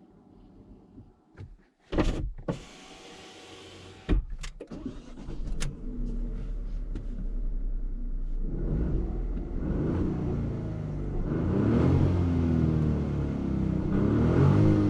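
A few sharp clunks in the first four seconds, then the Fiat Tipo's 1.0-litre turbocharged three-cylinder petrol engine running steadily. From about eight and a half seconds it gets louder, its pitch rising and falling as the car pulls away.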